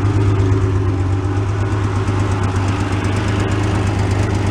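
Porsche 911 flat-six engine idling steadily with a fast, light ticking, from an exhaust leak and what may be a little valve tapping.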